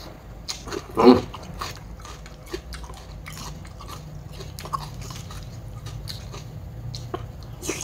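A person chewing a mouthful of crab salad, with scattered small clicks and smacks. A short vocal sound comes about a second in.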